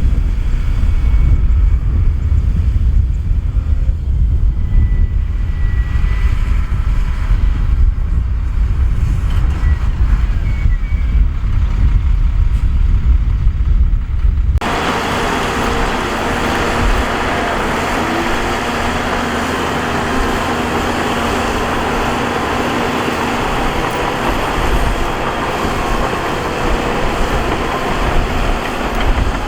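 Heavy diesel earthmoving machinery working, a steady engine drone. For about the first half it is mostly a deep low rumble; about halfway through it cuts suddenly to a harsher, hissier steady noise.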